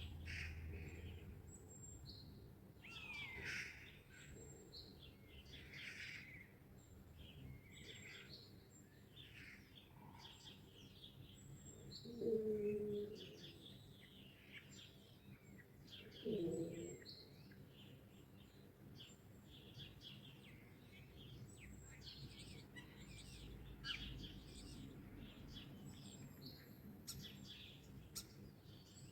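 Songbirds in a dawn chorus, many short high chirps and trills overlapping. Two louder, lower calls come about twelve and sixteen seconds in.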